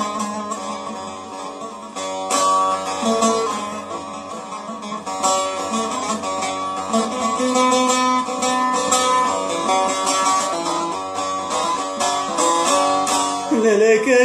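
Instrumental folk music led by a plucked string instrument playing a melody, with a voice beginning to sing just at the end.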